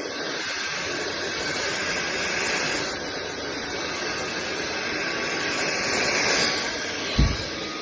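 Sulean X8 cordless stick vacuum running, a steady rush of suction noise that swells a little about two-thirds of the way in, with a low thump near the end.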